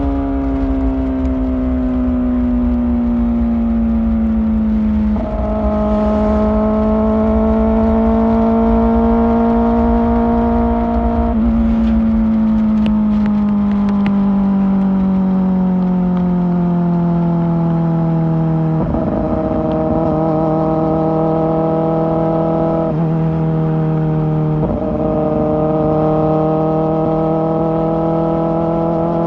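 Kawasaki ZX-4R's inline-four engine through an Akrapovic exhaust, running at high, fairly steady revs. The pitch sags slowly and changes abruptly several times, over a low wind rumble.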